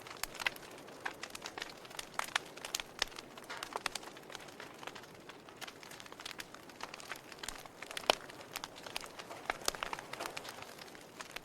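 Wood fire in a fireplace crackling: irregular sharp pops and snaps over a soft hiss of burning, with the loudest snap about eight seconds in.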